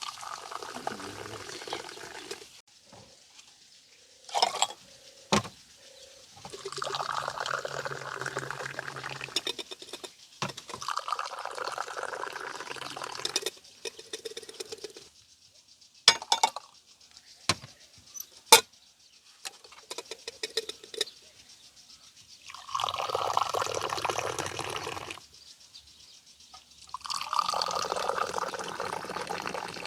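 Liquid being poured, in about five separate pours of two to three seconds each, with a few sharp clicks or knocks in between.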